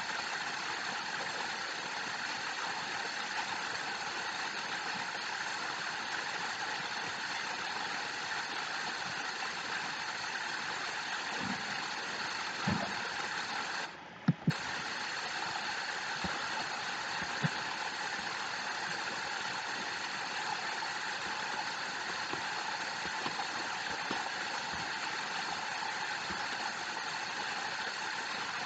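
Steady rush of falling water, like a waterfall. It drops out briefly about fourteen seconds in, and a few faint clicks stand out.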